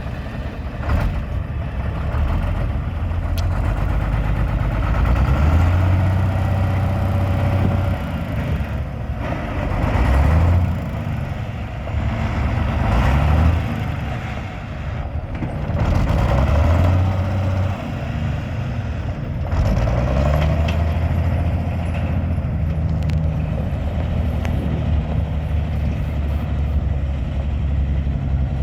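Diesel engine of a 1999 Peterbilt water truck idling. Through the middle stretch it is revved up and back down about four times, then settles back to a steady idle.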